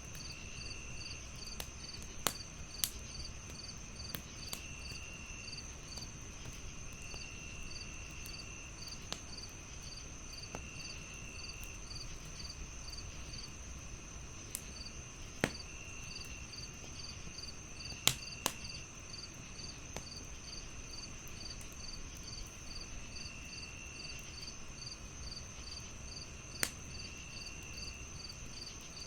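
Crickets chirping in a steady chorus, one with an even fast pulse and others trilling on and off. A wood fire crackles with scattered sharp pops, the loudest about eighteen seconds in.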